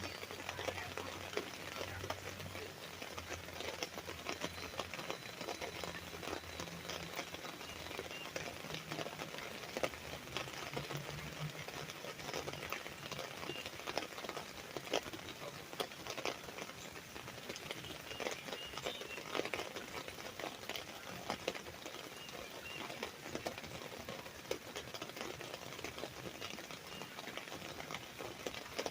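Rain falling steadily on an umbrella canopy: a dense, even patter of drops striking the fabric.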